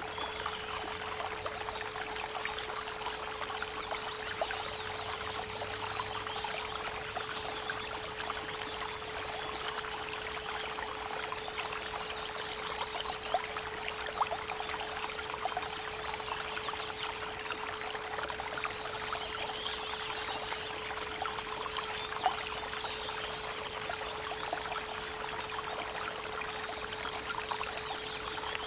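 Creek water running steadily, with a 432 Hz pure tone held unbroken beneath it. Short bird calls come about nine seconds in and again near the end.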